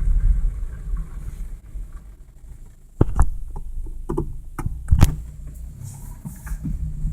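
Low, steady rumble inside the cabin of a 1991 Toyota Corolla with its windows down. About three seconds in comes a sharp knock, then a run of knocks and clunks over the next two seconds.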